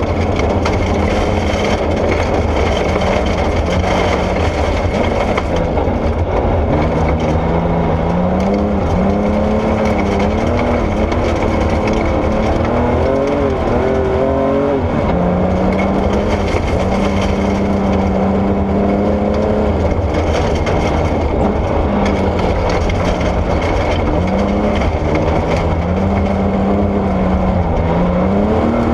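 Porsche 964 rally car's air-cooled flat-six engine under hard driving, its pitch climbing and dropping again and again as the driver accelerates, lifts and changes gear, over a constant heavy low rumble of the car on gravel.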